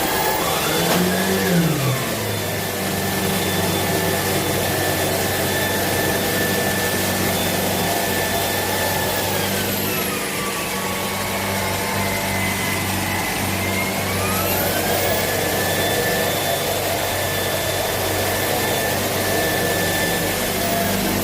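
Shark PowerDetect cordless stick vacuum running steadily with a whining motor. Its pitch drops about halfway through and climbs back up a few seconds later as the motor speed changes.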